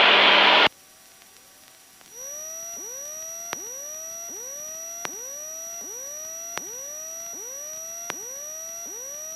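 Piper Comanche cabin noise cuts off abruptly under a second in. After a short near-silence comes an electronic signal: a steady high whine under a fast, even run of rising chirps, about two and a half a second, with a faint click every second and a half.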